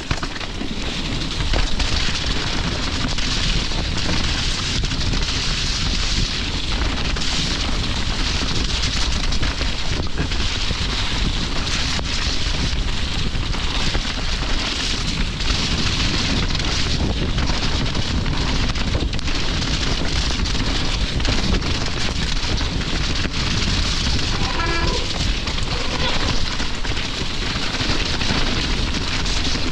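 Mountain bike ridden down a wet, muddy trail: a steady rush of wind on the microphone and tyres over mud and rock, with many small knocks and rattles from the bike. A couple of brief squeals come near the end.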